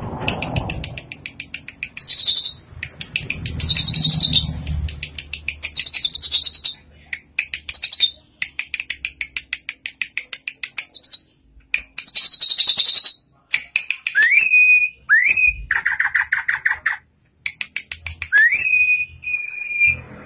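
Drongo (saeran) singing: fast runs of clicking, chattering notes mixed with bright high notes, then, in the second half, several quick upward-sweeping whistles.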